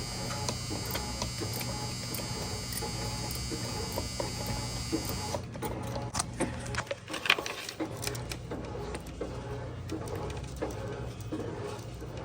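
A small electric motor whines steadily over a low hum, then cuts off suddenly about five seconds in. Scattered clicks and knocks of parts being handled follow.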